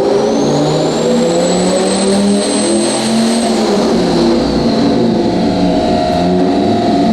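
Turbocharged 8.3-litre Viper V10 in a Ram truck running hard on a chassis dyno. A high turbo whine climbs and holds at full boost, then falls away from about three and a half seconds in as the pull ends.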